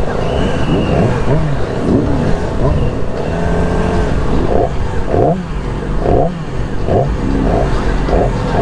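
Several motorcycle engines revving, their pitch rising and falling over one another; from about halfway through, one engine is blipped again and again, a short rev every second or less.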